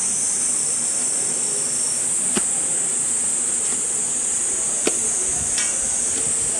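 A steady, high-pitched drone of a cicada chorus, with a few sharp clicks.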